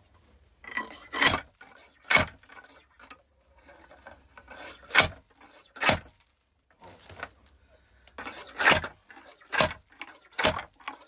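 Wedge axe striking a thick oak firewood round, about seven sharp knocks in groups a second or so apart, as the round is split apart.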